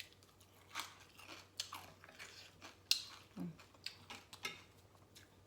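Close-up chewing and crunching of Lao-style papaya salad with raw vegetables: a string of irregular crisp crunches, with one sharp bite about three seconds in.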